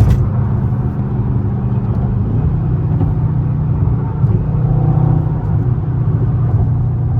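Dodge Scat Pack's 6.4-litre HEMI V8 running steadily while crawling in traffic, a low even drone whose pitch steps down a little about two seconds in. A sharp click sounds right at the start.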